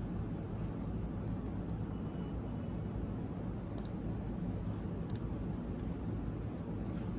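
Steady low background hum with two faint, short clicks, about four and five seconds in.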